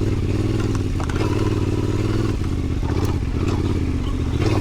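Adventure motorcycle engine running steadily at an easy cruising pace on a gravel road, with a few sharp clicks over the top.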